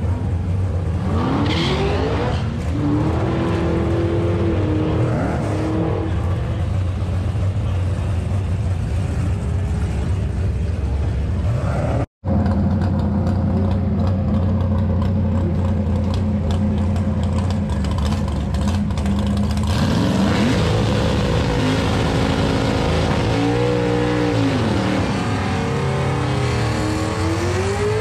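Drag cars' engines idling and revving at the starting line, with pitch rising and falling in repeated revs. The sound cuts out for an instant about twelve seconds in, and near the end an engine revs up hard into a tyre-smoking burnout.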